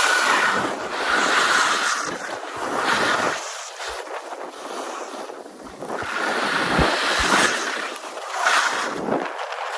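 Gusty wind blowing: a rushing noise that swells and fades every two to three seconds.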